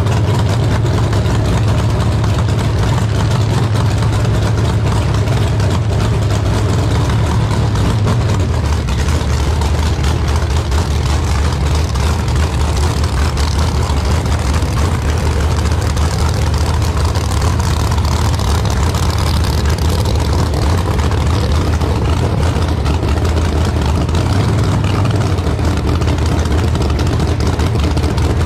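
A large engine idling steadily with a low, even rumble. Its pitch drops slightly about eight seconds in and comes back up near the end.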